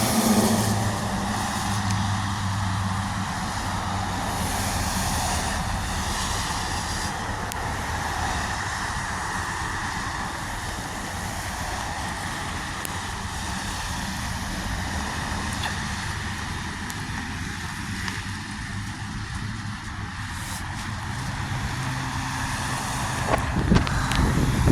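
Steady roadside traffic noise with a vehicle engine running, a constant low hum under it.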